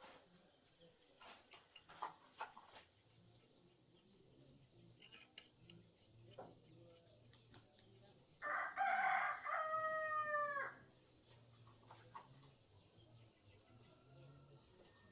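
A rooster crowing once, a little past halfway through: one call of about two and a half seconds, harsh at the start and then clear, falling at the end. A few faint clicks and taps come before it.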